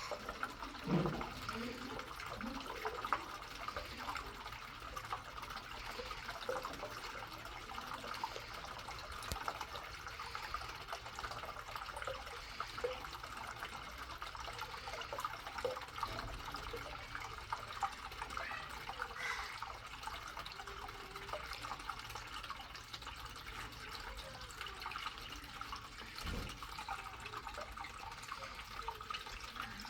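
Water splashing and trickling, with many faint small clicks and a dull low thud near the end.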